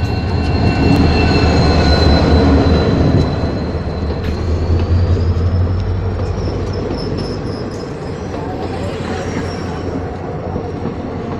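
Diesel locomotive passing close with a deep engine rumble, loudest in the first few seconds. Its passenger coaches then roll by with wheels clicking over rail joints, and a thin high wheel squeal that rises in pitch about halfway through.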